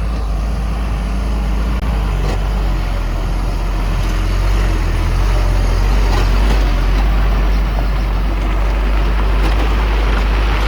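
Heavy diesel earthmoving equipment running steadily with a deep, constant engine rumble.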